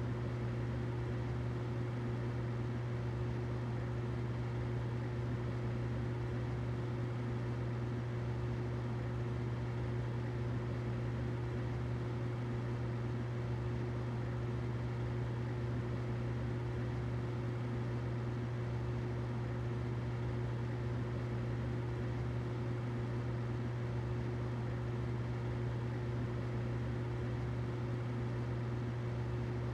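Humidifier running: a steady low hum with a fainter higher tone over an even background hiss, unchanging throughout.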